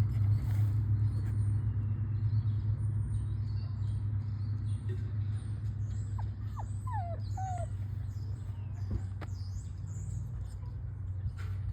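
Small birds chirping: many short high chirps, with a few quick falling calls about six to eight seconds in, over a steady low rumble.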